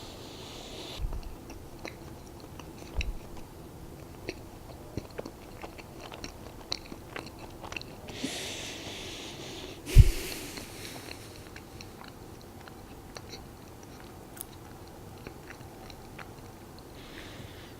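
Close-up chewing of soft doughnuts, with small wet mouth clicks and smacks scattered throughout. A few soft low thumps stand out, the loudest and sharpest about ten seconds in.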